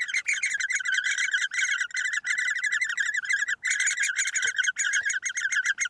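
Great spotted woodpecker nestlings begging from the nest hole: a rapid, unbroken chittering of high chirps, with a brief break about three and a half seconds in.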